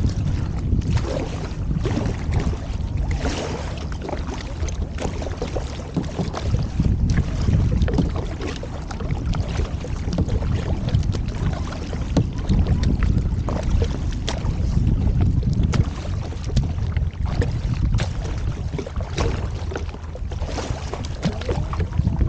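Wind buffeting the microphone in a heavy, steady rumble, with irregular splashes of kayak paddle strokes in the water.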